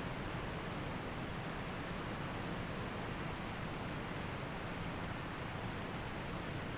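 Waterfall rushing steadily, an even hiss of falling water with no breaks or changes.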